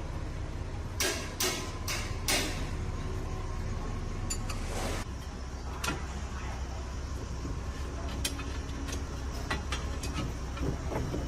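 Scattered knocks and clanks of parts and tools being handled during a truck axle repair, over a steady low hum. Four quick knocks come early, then a short scrape about five seconds in, then single knocks spaced a few seconds apart.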